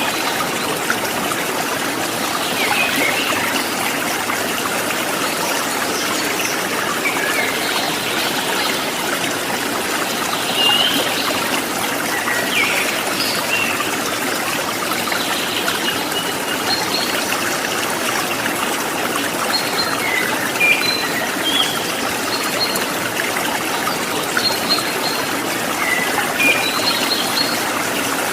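Water trickling and gurgling steadily, as from a small stream, with short bird chirps and whistles scattered throughout.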